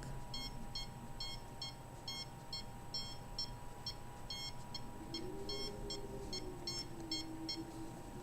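Electronic detector beeping in a rapid, slightly irregular train of short high beeps, about three a second, which thin out and stop near the end.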